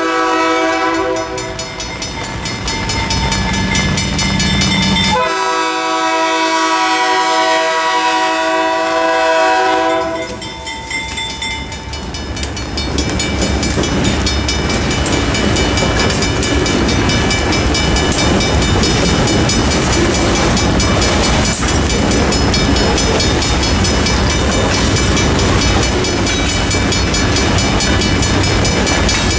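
Diesel freight train horn sounding long blasts for about the first ten seconds, then two GE B39-8 locomotives rumbling past over the crossing, followed by covered hopper cars rolling by with wheel clatter and clicks. A level-crossing warning bell rings in the background throughout.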